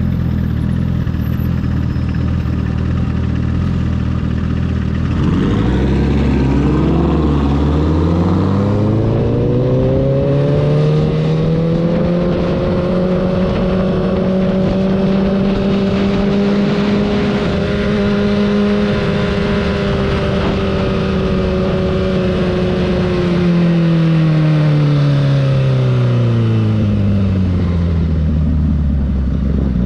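Honda CBR1000RR SP1's inline-four engine heard during a ride. It runs low and steady at first, then its pitch climbs smoothly over about five seconds, holds steady for a long stretch, and falls back down near the end.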